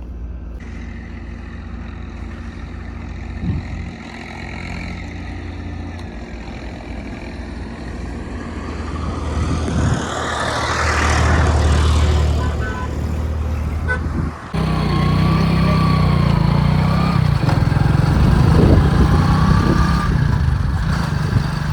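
Heavy diesel engines of the machines and trucks at a loading site running. The sound swells to a peak about half-way through, then changes abruptly to a louder, steadier engine note for the rest.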